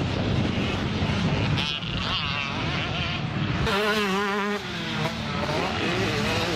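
Motocross bike engines running hard, their pitch rising and falling quickly as the throttle is worked, with a buzzing, wavering note loudest a little past halfway; wind noise on the microphone underneath.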